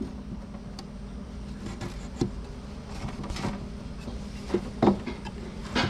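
Wooden beehive frames knocking and scraping as they are set into a hive super: a few light, irregular knocks over a steady low hum.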